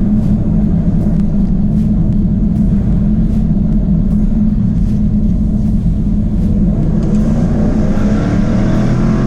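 2024 Jaguar F-Type's 5.0-litre supercharged V8 running steadily under way, a constant low engine drone. About seven seconds in, a rising whine joins it as the car picks up speed.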